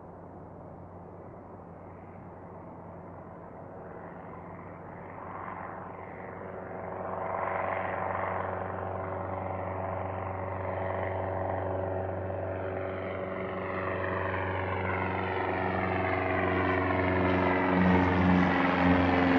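Aircraft engine drone growing steadily louder as the plane approaches, its steady engine tones joined by sweeping pitch lines higher up.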